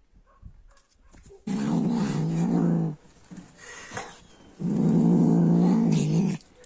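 A pet cat or dog making two long, low calls, each about a second and a half long, with a short pause between them.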